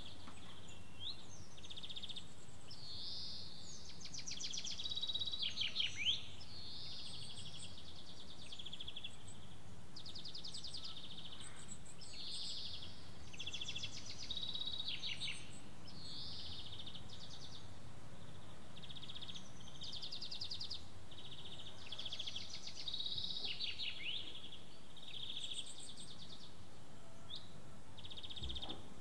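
Several songbirds singing, with repeated high phrases and fast trills that overlap one another, over a steady low background rumble.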